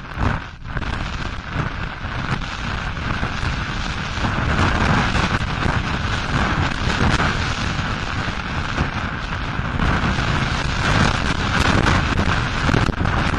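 Mountain bike riding fast down a rough trail: continuous tyre rumble with many quick knocks and rattles from the bike over the uneven ground, mixed with wind buffeting the microphone.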